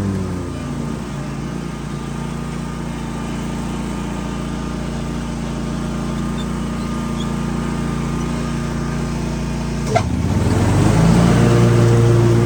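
Husqvarna zero-turn lawn mower engine running: its note drops about half a second in and holds steady, then a sharp click about ten seconds in and the engine note rises and gets louder.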